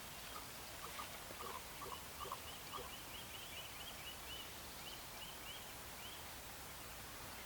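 Bird calls: a run of about seven short, low calls in quick succession, overlapped and followed by a fast series of high, thin chirps.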